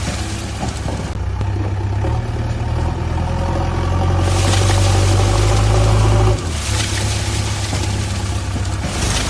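Heavy machinery engine running steadily, swelling louder about two seconds in and dropping back suddenly a few seconds later.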